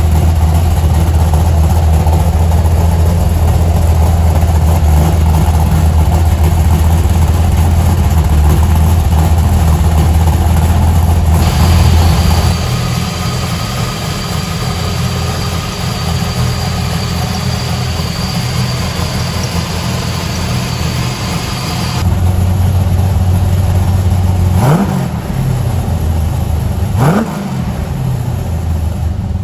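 Big-block 502 V8 idling with a deep, steady exhaust note through stainless Pypes exhaust. Midway it runs quieter, with a thin high whine from the engine bay. Near the end it is blipped twice, revving up quickly and dropping straight back to idle.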